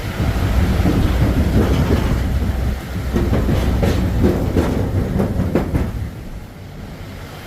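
A moving vehicle's heavy low rumble, with a quick run of rattling clacks in the middle, easing off in level about six seconds in.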